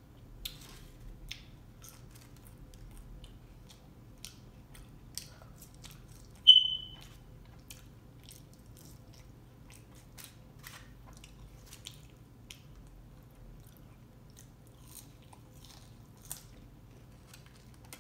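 A person chewing and biting French fries, with small mouth clicks and smacks scattered throughout. One sharper, louder click about six and a half seconds in.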